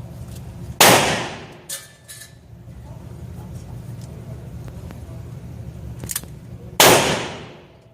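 Two shots from a Ruger New Vaquero .44 Magnum single-action revolver, about six seconds apart, each with a long echoing fade, with a few fainter clicks in between.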